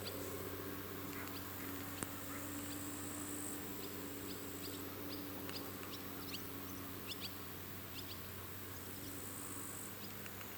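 Birds chirping in short, high calls, thickest through the middle, over the steady low hum of the 2TE10MK diesel locomotive's two-stroke opposed-piston engines. One sharp click about two seconds in.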